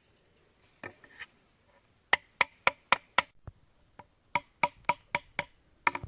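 Sharp knocks in quick runs: five strikes at about four a second, a short pause, five more, then one last strike.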